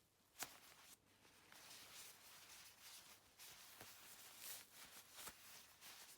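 Faint rustling and handling noises, with a sharp click about half a second in and a few softer taps later.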